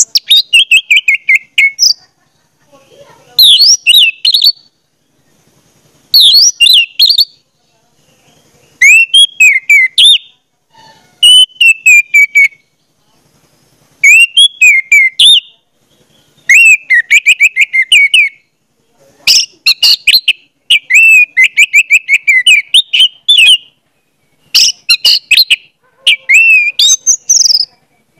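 A bird singing loudly and close up, in repeated short phrases of quick chirping, whistled notes, about one phrase every two seconds.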